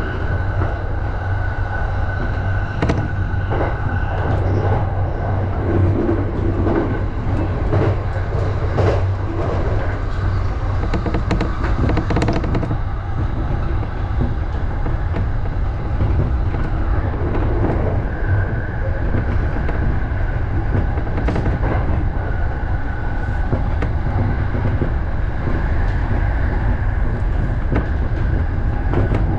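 Electric commuter train running at speed, heard from inside the front cab. A steady low rumble of wheels on rail carries a steady high whine and irregular clicks as the wheels pass over rail joints.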